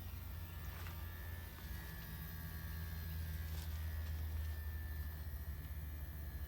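Mitsubishi mini-split heat pump outdoor unit running in a defrost cycle: a steady low hum with a faint high whine, growing slightly louder about halfway through.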